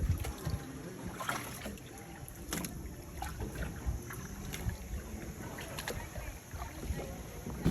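Kayak paddle strokes splashing in the water, a few short splashes about a second or so apart, over a low wind rumble on the microphone.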